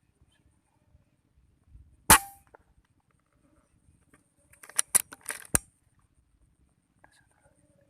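A single air rifle shot about two seconds in, a sharp crack followed by a short ringing tone. About three seconds later comes a quick run of four or five sharp clicks.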